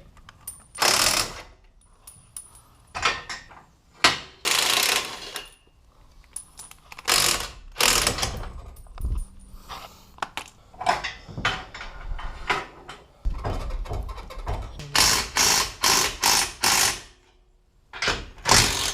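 Ratchet wrench clicking in repeated bursts of back-and-forth strokes, loosening the nuts on a boat trailer's axle U-bolts, with a quicker run of strokes near the end.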